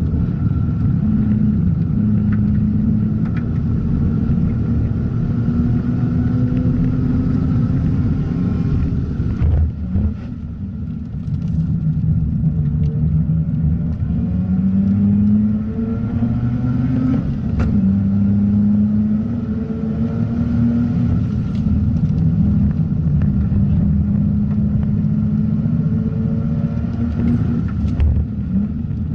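Mazda RX-8's twin-rotor Renesis rotary engine running hard on track, its pitch rising as it pulls and falling back at lifts and gear changes, with a brief drop in level about ten seconds in.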